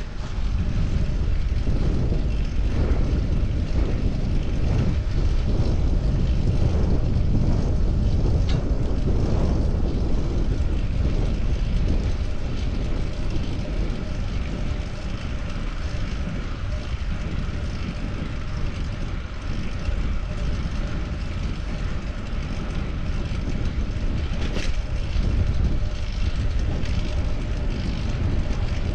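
Wind buffeting the microphone and road noise while riding a bicycle: a steady low rumble, with a brief sharp click about eight seconds in and another about twenty-five seconds in.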